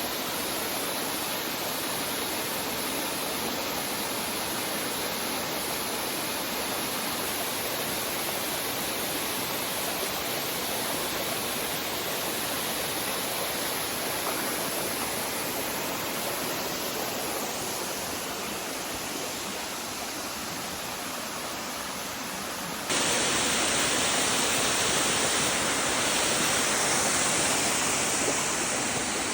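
Steady rushing of water falling over a small rainforest creek waterfall. About 23 seconds in, it suddenly becomes louder and brighter.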